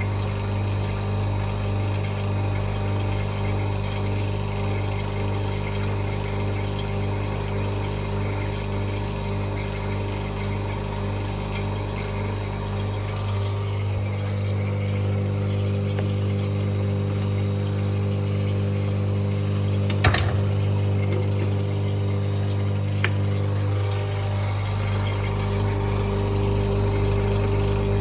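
Steady electric machine hum, a constant low drone with overtones, broken by two sharp clicks about three seconds apart in the latter part.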